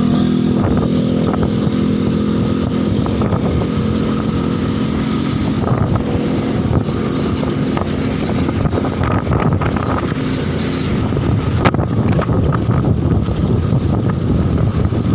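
Motorcycle engine running steadily while riding at speed, its note plainest in the first few seconds, under strong wind buffeting the microphone that grows rougher later on.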